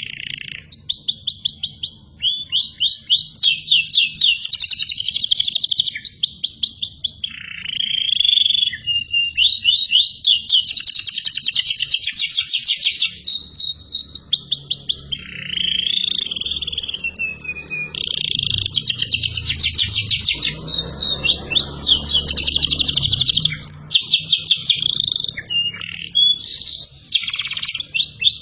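Domestic canary singing a long, continuous song: fast rolling trills of high repeated notes, broken now and then by short lower sweeping phrases.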